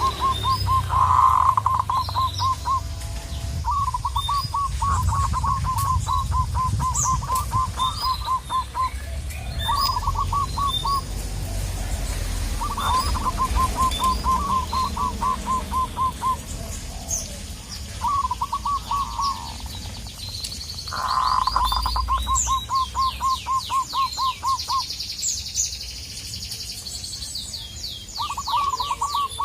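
Zebra dove (perkutut) singing its rapid, stuttering cooing song in repeated bouts of a second or two each, about seven in all. Other small birds chirp higher up, with a quick run of high descending notes a little past the middle.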